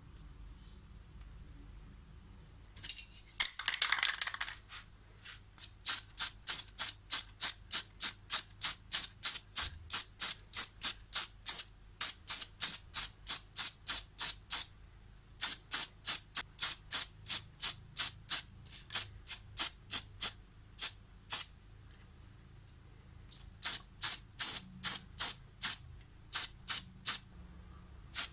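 Aerosol spray-paint can shaken, its mixing ball rattling, then sprayed in many short hissing bursts, about two or three a second, with a pause of a couple of seconds before the bursts resume.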